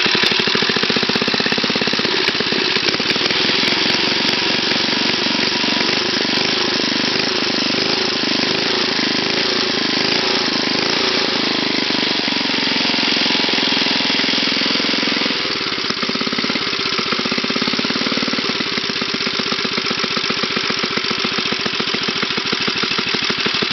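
A 5-horsepower go-kart engine, with no clutch or chain fitted, running on its own at a steady speed. Its speed and loudness dip briefly about two-thirds of the way through, then pick up again.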